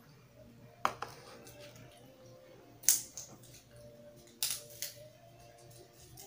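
Close-miked crunching of crisp raw vegetables being chewed: sharp crunches in three pairs, about a second in, three seconds in and around four and a half seconds in.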